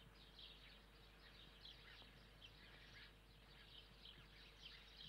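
Near silence with faint, scattered bird chirps repeating throughout.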